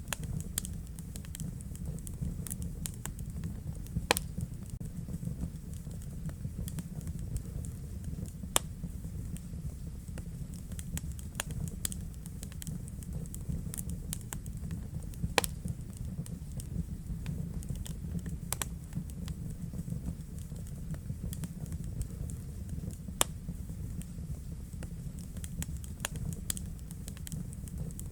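Wood fire burning in a fireplace: steady low rumble of the flames with constant irregular crackling, and a few louder sharp pops.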